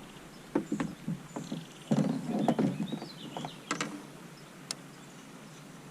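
Irregular knocks and short rattling clatters of a freshly caught rock bass and fishing gear being handled in a kayak, loudest in a burst about two seconds in.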